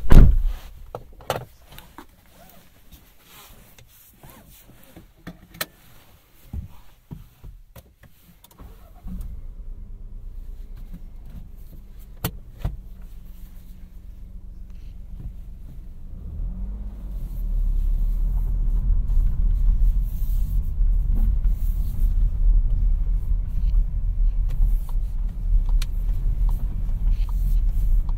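A loud thump, then scattered clicks, before a 2017 Seat Arona's 1.0 TSI three-cylinder turbo petrol engine starts about nine seconds in and idles steadily. About seven seconds later the engine grows louder with a steady low rumble as the car moves off.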